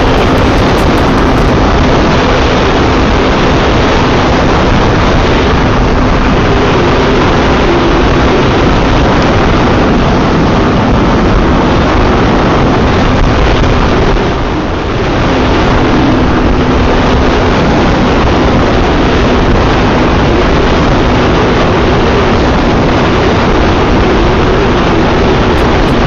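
Yamaha FZ V3's single-cylinder engine running at a steady cruising speed, with loud wind and road noise over the microphone. The engine note drops for a moment about halfway through, as the throttle eases, then picks up again.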